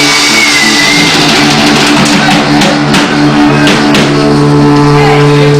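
Rock band playing live: electric guitar and drum kit, with a run of sharp drum hits in the middle, then long held chords.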